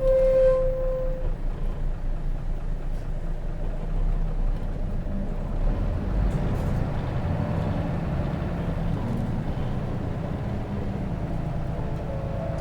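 Hino J08C inline-six diesel engine of a Hino RJ route bus running as the bus drives, heard from inside the passenger cabin, with a short high squealing tone at the start.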